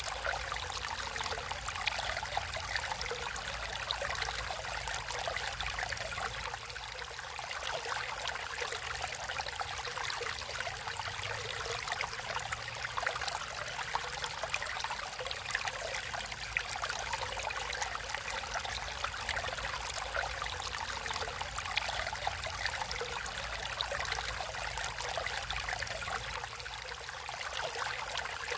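Water in a natural stream flowing and trickling steadily, a continuous splashing rush with no pauses.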